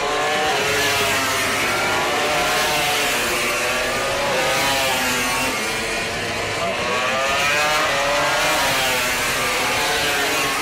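Racing motorcycle engines running at speed, several at once, their pitch repeatedly rising and falling as they rev and pass.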